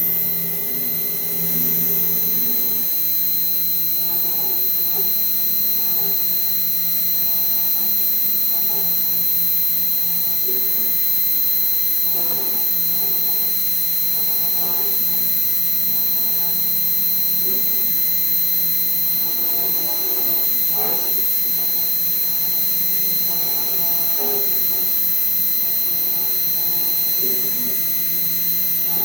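Fox Alien XE-PRO CNC router running: a steady electric hum and whine from the spindle, with the stepper motors giving short tones that keep jumping in pitch as the axes move.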